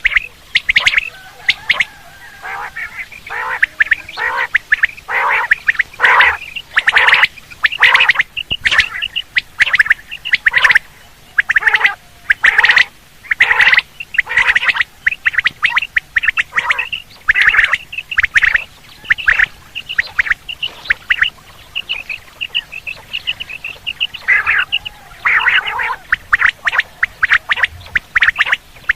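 Quail calling over and over in loud bursts of rapid, short, shrill notes, with brief pauses between bursts.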